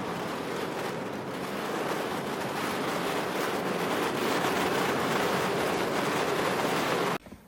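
Steady rushing noise with no pitch that swells slightly, then cuts off abruptly about seven seconds in.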